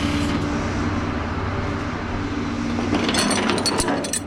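Vehicle engine idling steadily, with a cluster of sharp clicks and rattles about three seconds in.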